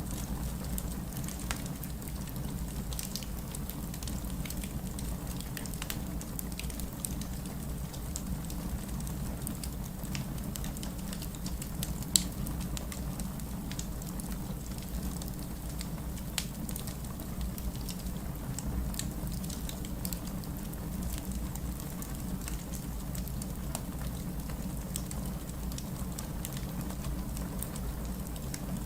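Fireplace crackling mixed with steady rain and a low rumble. Scattered sharp crackles and pops ride over the even hiss of the rain, and one pop about twelve seconds in is louder than the rest.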